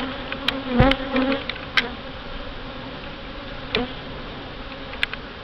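Honey bees buzzing around an opened hive: a steady hum, with single bees now and then flying close past the microphone, their buzz swelling and bending in pitch. A few light clicks.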